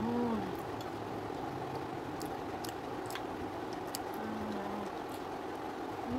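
Eating ripe mango slices off a plate: soft chewing with a few light clicks of metal forks on the plate, and a short closed-mouth 'mm' hum at the start and again about four seconds in. A steady background hum runs underneath.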